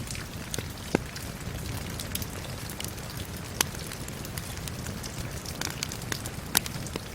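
Steady rain hiss mixed with a crackling wood fire, sharp pops and snaps scattered through it, the loudest about a second in, midway and near the end.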